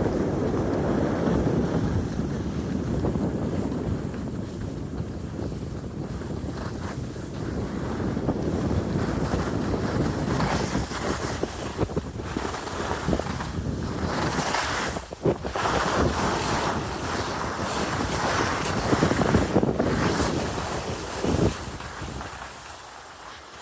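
Wind rushing over the camera microphone while riding down a ski slope, with the steady hiss and scrape of sliding on snow. A few sharper scrapes come around the middle, and the rushing dies down near the end.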